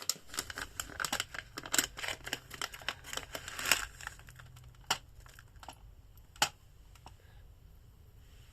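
Pet rabbit moving about its pen: a quick patter of small clicks and rustles for about four seconds, then a few scattered single clicks.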